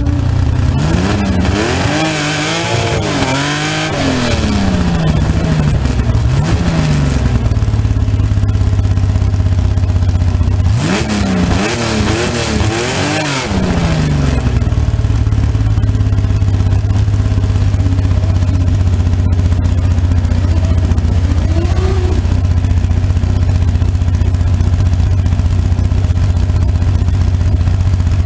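Fuel-injected Holden 202 straight-six of a slingshot dragster idling, blipped up and down several times in quick succession early on, again in a second burst of revs a few seconds later, then settling back to a steady idle with one light blip near the end.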